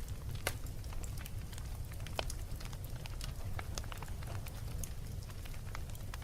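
Wood fire crackling in a fireplace: irregular sharp pops and snaps, two louder ones about half a second and two seconds in, over a steady low rumble of the flames.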